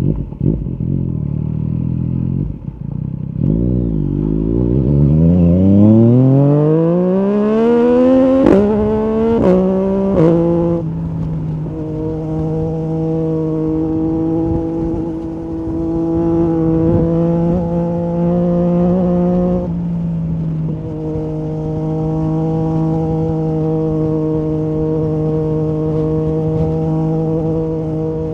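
Yamaha MT-09 SP's inline-three engine through an Akrapovic carbon Racing-Line exhaust with the dB-killer out. It runs low at first, then accelerates hard with its pitch rising steeply over about six seconds, with quick breaks as gears change about 8, 9 and 10 seconds in. It then holds a steady cruising drone, easing slightly near 20 seconds in.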